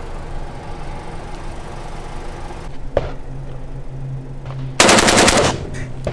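A short burst of rapid automatic fire from an AK-47-type rifle in 7.62x39, the loudest sound, coming about five seconds in. A single sharp click comes a couple of seconds before it.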